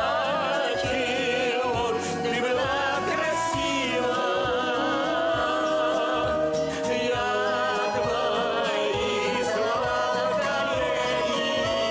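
A song: a singer holding notes with vibrato over an instrumental backing with a steady beat.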